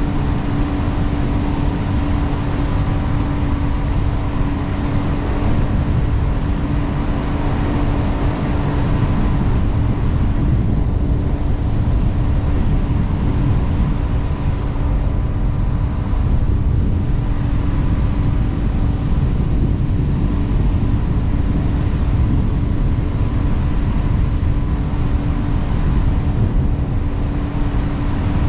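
Jet boat running steadily under way: a constant engine hum over a heavy low rumble, with no change in pitch or level.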